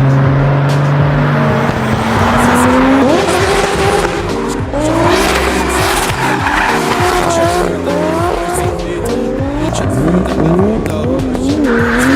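Toyota Supra MK4 engine revving hard, its pitch climbing and dropping again and again, with tyres squealing. Music plays underneath.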